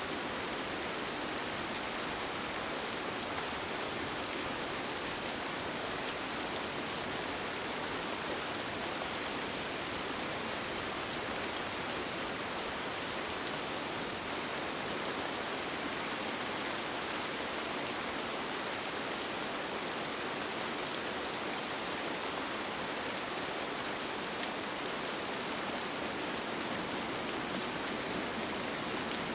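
Steady rain: an even hiss with faint scattered drop ticks that holds unchanged throughout.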